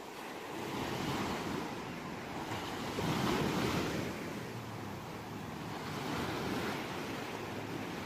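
Sea waves washing onto a shore in repeated swells that rise and fall, the loudest surge about three seconds in.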